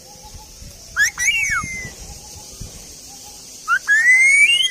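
A parrot whistling two whistles: a short one about a second in that rises and then falls, and a longer one near the end that climbs steadily in pitch.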